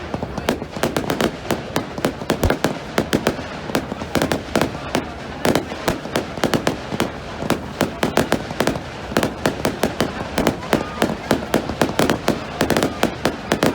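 Fireworks going off in a rapid, irregular string of sharp cracks and bangs, several a second, without a break.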